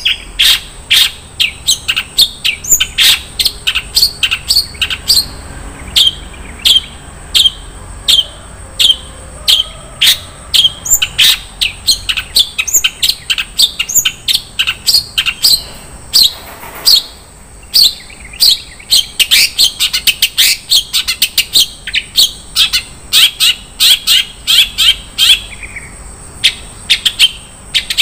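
Long-tailed shrike (cendet) singing a fast string of short, sharp, high chirps, several a second. The song is a 'full isian' of mimicked phrases, with one harsher rasping call partway through.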